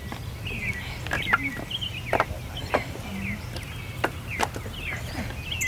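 Small birds chirping over and over in short calls, with a few sharp snaps or clicks scattered through, over a steady low background hum.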